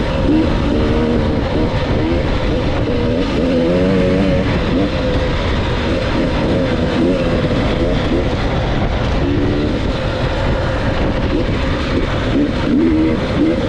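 Dirt bike engine running under a rider's throttle, its pitch rising and falling repeatedly, over a loud steady rushing noise.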